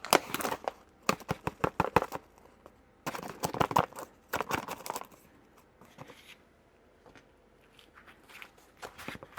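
A scoop of milk paint powder being measured out: quick scraping and rustling strokes in two bursts over the first half, then only faint handling sounds.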